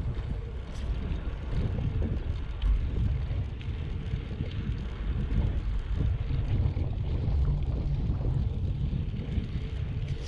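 Wind buffeting a GoPro's microphone while riding a bicycle: an uneven low rumble with a fainter hiss above it.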